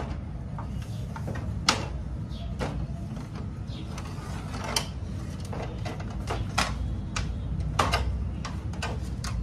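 Irregular clicks and knocks of plastic and metal parts being handled while a photocopier is worked on, over a steady low hum. The sharpest knocks come about two seconds in and again near the end.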